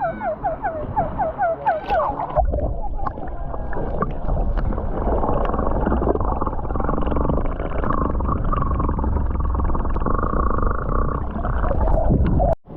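A quick run of high, rising squeals, about four a second, then a loud, muffled rush of sea water and wind noise on the microphone that cuts off suddenly near the end.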